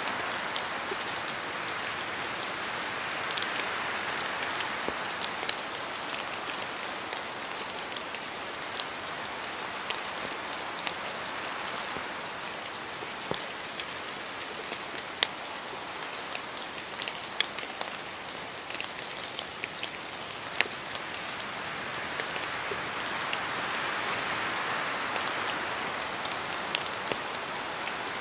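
Steady rain falling in a forest, an even hiss with many individual drops ticking sharply close by. The hiss swells near the start and again near the end, as if in gusts of wind.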